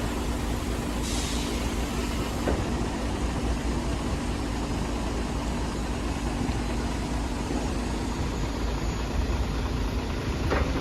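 Lion 1.6-ton electric reach truck running, a steady machine hum over even noise.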